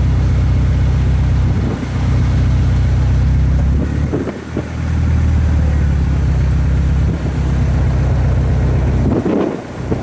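Car engine running, a steady low rumble that dips briefly a few times.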